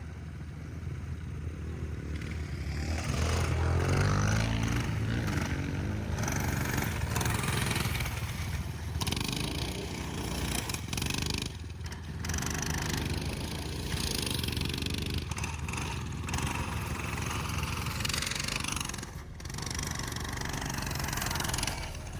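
Dirt bike engine being ridden, revving up about three seconds in and then running on with the revs rising and falling.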